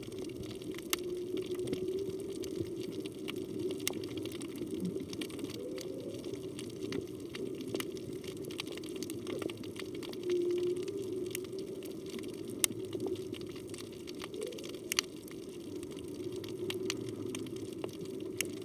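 Underwater reef ambience with humpback whale song: a few short tones and upward-gliding calls over a steady water rush, with scattered sharp clicks throughout.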